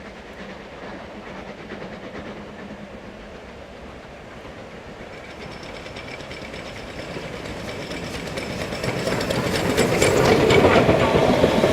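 Steam-hauled train approaching on the line, growing steadily louder over the last few seconds, with the wheels clicking over the rail joints as it nears.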